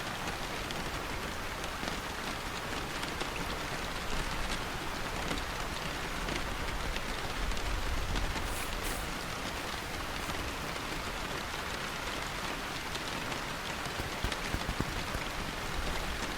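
Steady rain falling, with scattered individual drops pattering on a surface.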